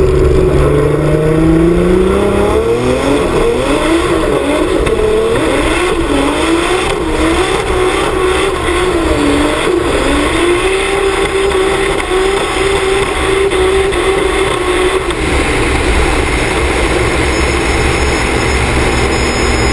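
Turbocharged M50 3.0 straight-six in a BMW E30 race car under power: the revs climb, then rise and fall repeatedly, then hold steady before the engine note drops away about fifteen seconds in, leaving wind and road rush on the outside-mounted microphone.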